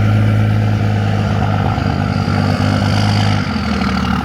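Pickup truck engine running steadily under throttle, easing off about three and a half seconds in.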